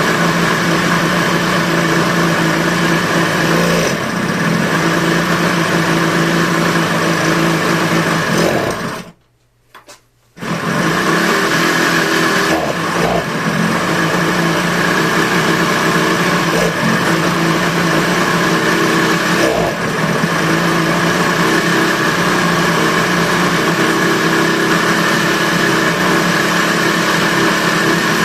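Yamaha HS1 motorcycle with an HX90 small two-stroke twin engine running steadily, with a rattly, jingling mechanical engine noise that stands out because it is running indoors. The sound cuts out abruptly for about a second near the middle.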